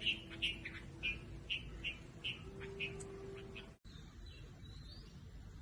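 Small bird chirping: a series of short, high chirps about two to three a second, which stop abruptly a little before the four-second mark; fainter after.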